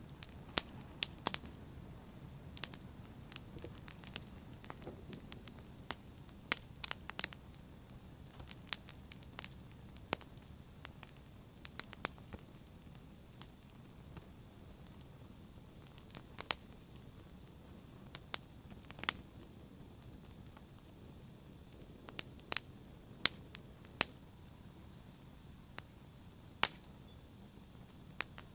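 Wood fire in a fireplace crackling: irregular sharp pops and snaps, sometimes several in quick succession, sometimes a few seconds apart, over a faint low hiss of burning.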